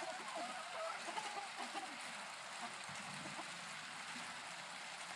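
Chickens clucking faintly, a few short calls mostly in the first couple of seconds, over a steady background hiss.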